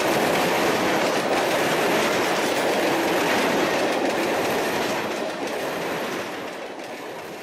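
Freight train tank cars rolling past at close range: a steady noise of steel wheels running on the rails, which fades away over the last couple of seconds.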